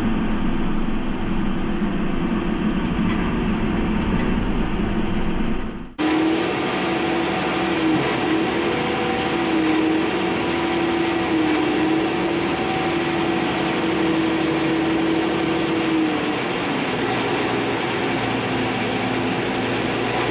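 Case IH 620 QuadTrac tractor running steadily on the road: a continuous engine drone with a hum. About six seconds in the sound cuts abruptly to a brighter steady drone with a high sustained whine that eases down near the end.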